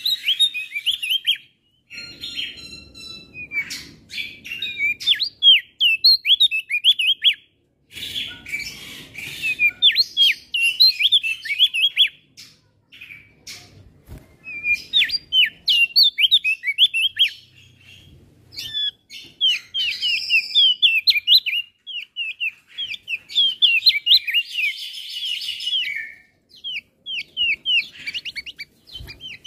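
Male opior jambul singing: bursts of rapid, high, sharp chirps, broken by short pauses.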